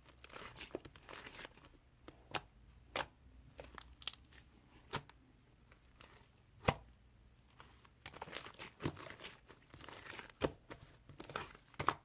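Slime being squeezed and stretched by hand: irregular sticky crackling broken by sharp popping clicks as air pockets burst, the loudest pop a little past halfway.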